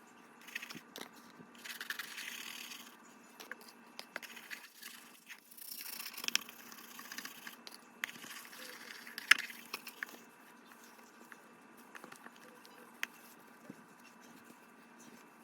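Intermittent scraping and rustling with light knocks and clicks as things on top of a fridge are scrubbed and moved around, with a sharp click about nine seconds in.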